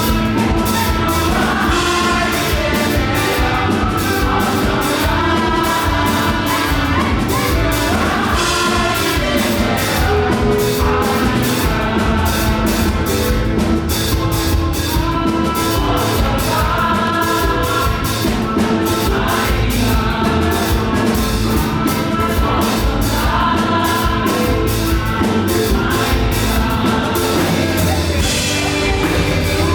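Live up-tempo gospel praise music: voices singing over a band with a fast, steady drum beat.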